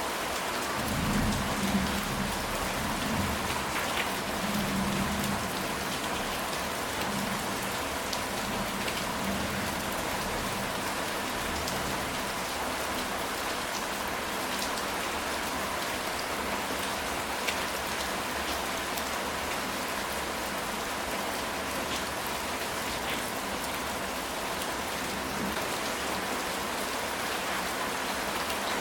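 Steady, dense rain falling on a ceramic tile roof, with a low rumble of distant thunder in the first few seconds.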